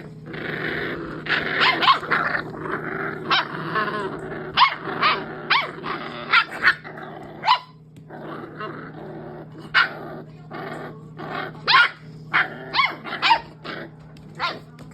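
Dogs barking and growling: a rapid, irregular run of short, sharp barks over continuous rough growling.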